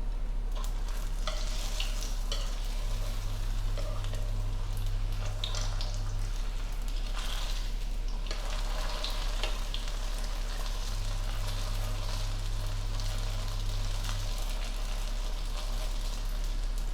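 Tacos frying in hot oil, a continuous sizzle with many small crackles and pops, over a steady low hum.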